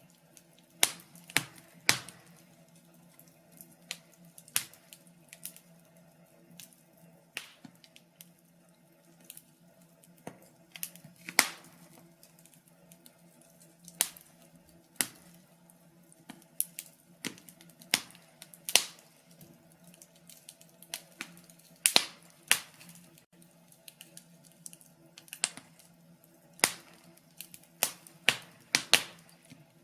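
Wood fire in a fireplace crackling, with irregular sharp pops and snaps, some in quick clusters of two or three, over a faint steady hum.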